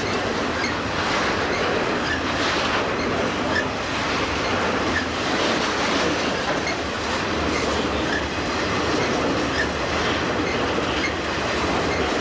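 Santa Fe intermodal freight train rolling past: a steady, loud rumble and rattle of wheels on rail, with light clicks every second and a half or so.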